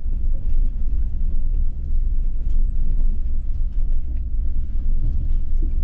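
Pickup truck crawling over a rough, rocky dirt road: a steady low rumble of engine and tyres, with a few light knocks from the rocks.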